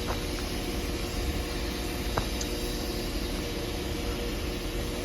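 Northern Class 195 diesel multiple unit standing at the platform with its engines running: a steady hum with a faint held tone and a few small clicks.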